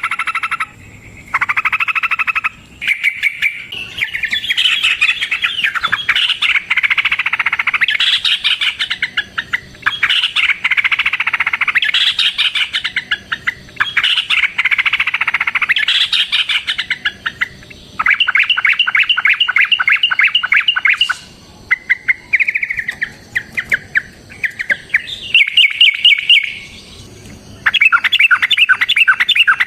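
Yellow-vented bulbul (trucukan) singing in long, fast chattering runs of repeated notes, with brief pauses between phrases.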